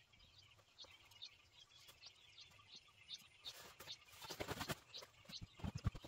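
Faint small birds chirping over and over, short high notes. From about three and a half seconds in, irregular footsteps rustle through dry leaf litter and grow louder.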